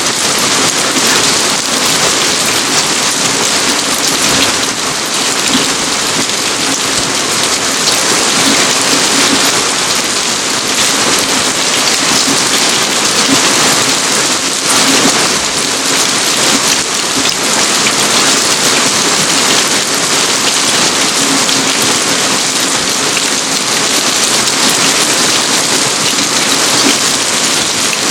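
Steady rain falling on outdoor surfaces, a loud, dense, even patter of drops.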